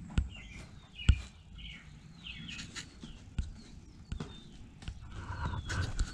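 Birds chirping repeatedly in short falling chirps, with a few sharp knocks and some shuffling between them.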